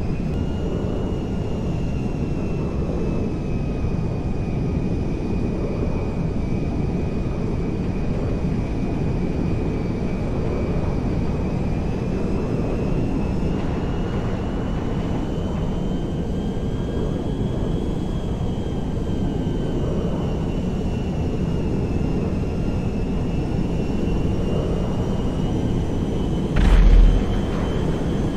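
Airplane engines running steadily: a constant rumble with a faint high whine that drifts slowly up and down in pitch. A short loud bump near the end.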